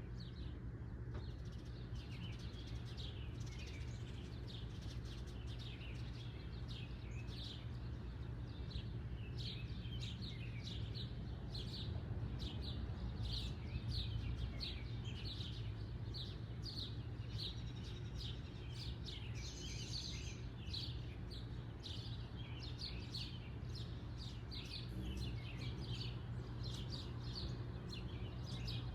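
Backyard birds chirping with a steady run of short, high notes, about two a second, over a steady low hum.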